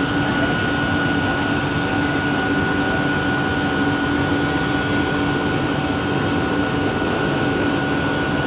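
Inside a Bombardier Innovia ART 200 metro car: a steady running rush with a few constant whining tones over it, holding even throughout.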